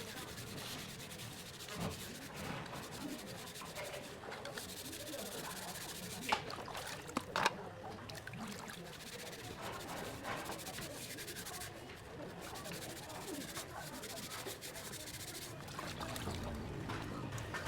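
Sandpaper rubbing steadily back and forth on a surface, as in sanding during paint preparation, with a few sharp knocks near the middle.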